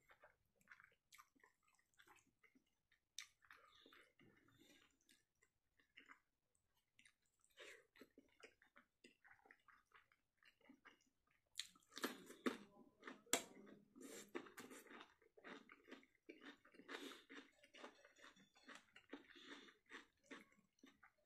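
Close-up sounds of a person eating fish curry and rice by hand: chewing with many short wet clicks, busier and louder from about halfway through.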